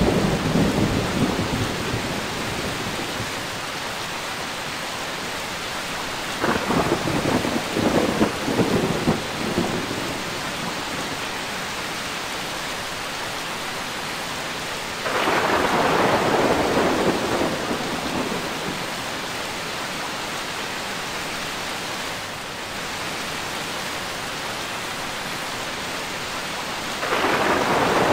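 Thunderstorm: steady rain hiss with repeated thunder, a rumble dying away in the first few seconds, a crackling peal about six seconds in, and louder claps about fifteen seconds in and again near the end.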